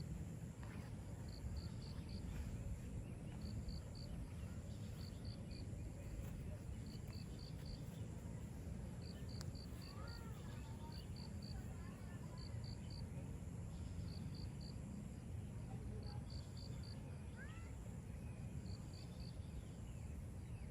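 Outdoor nature ambience: an insect chirping in short trills of three or four pulses, repeating about every second and a half, over a steady low rumble of background noise. A few brief whistled calls come in around the middle and later.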